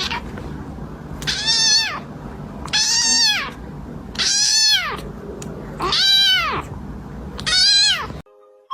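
Domestic cat meowing five times at even intervals of about a second and a half, each meow rising then falling in pitch.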